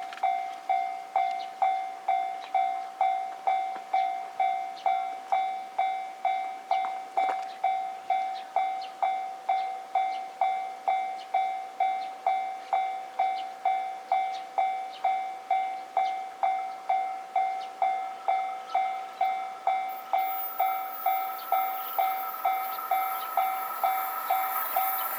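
Japanese level-crossing warning bell ringing steadily, about three strikes every two seconds. Toward the end a rising hiss and steady whine join it as an approaching train nears.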